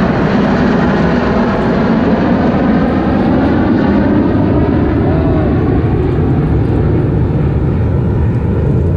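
Loud, steady roar of a formation of aerobatic jet aircraft flying past, with a slowly shifting tone as they pass overhead.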